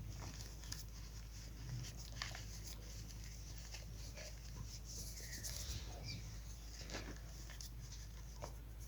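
Chalk being crumbled, giving scattered soft crackles and crunches over a light powdery rustle, with a steady low hum underneath.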